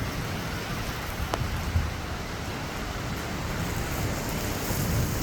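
Heavy rain falling steadily with strong wind, a low rumbling buffet under the hiss of the rain, and a faint click about a second in.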